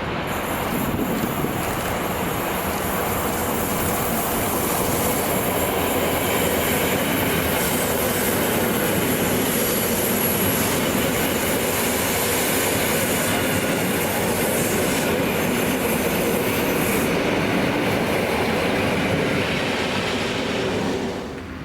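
A train running by on the rails, with a steady rumble, clatter of wheels over the track and a thin, high wheel squeal. The noise fades off near the end.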